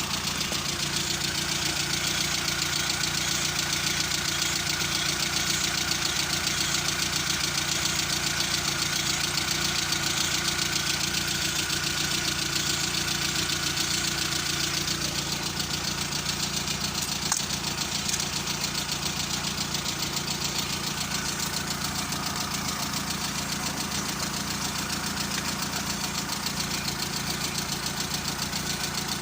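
A motor running steadily with a fast, even pulse, and a single click about 17 seconds in.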